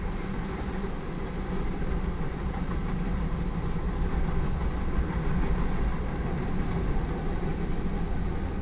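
Freight train's covered hopper and tank cars rolling past: a steady, low rumble of steel wheels on the rails.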